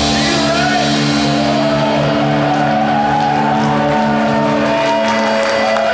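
Live rock band holding a final chord that rings out without drums, with wavering held notes over it and a few shouts from the crowd.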